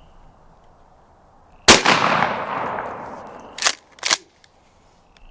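A single shotgun blast about a second and a half in, its echo fading over a second or so, followed about two seconds later by two sharp clacks in quick succession.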